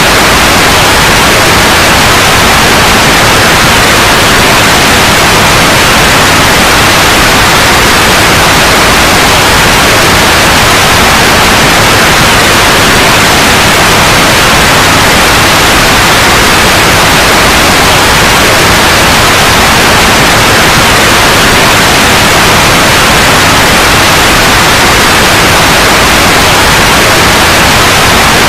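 Loud, steady white noise: an even, unchanging hiss.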